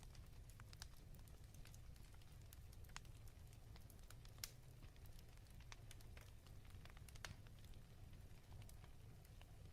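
Faint crackling of a fireplace fire: scattered small pops and snaps, a few sharper than the rest, over a low steady rumble.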